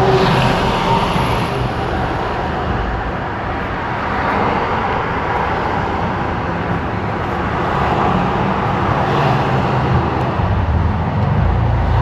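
Steady low rumble of a BMW M3's straight-piped S55 twin-turbo straight-six running at low speed, mixed with road and city traffic noise heard through open windows.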